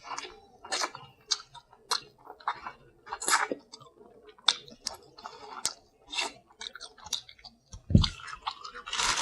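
Close-miked chewing and lip-smacking of seafood, in irregular wet clicks and smacks. There is a single low thump near the end.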